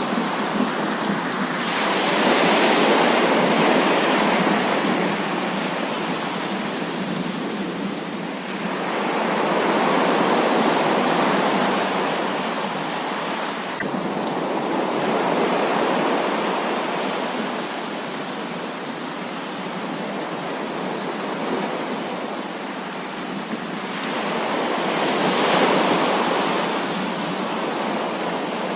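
Heavy rain falling as a steady hiss, swelling louder and easing back about four times.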